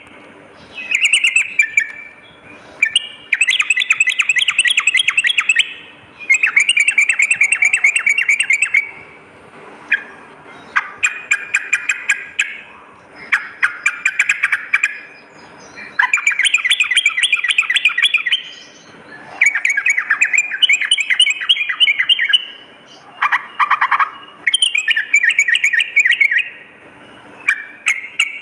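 Sooty-headed bulbul song: repeated bursts of fast, rattling chatter, each a second or two long, with short pauses between.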